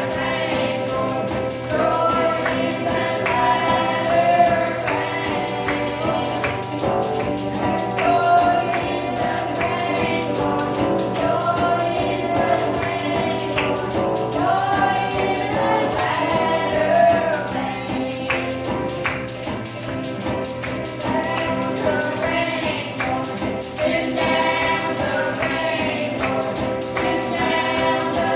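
Children's choir singing a gospel song, with a tambourine jingling to the beat.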